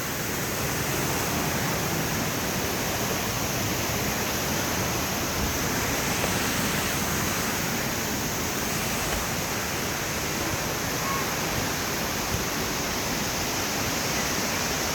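Steady rush of a river's flowing water below waterfalls, an even noise with no breaks.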